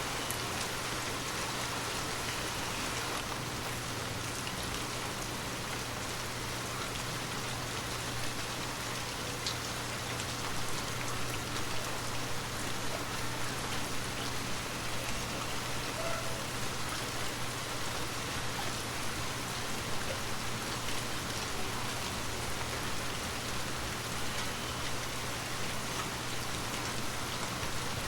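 Steady gentle rain falling, with scattered distinct drop hits over an even hiss and a faint low hum underneath.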